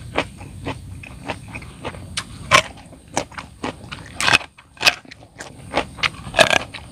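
Raw young papaya stalk being bitten and chewed: a run of crisp crunches, with the loudest bites a little past two seconds, around four to five seconds, and about six and a half seconds in.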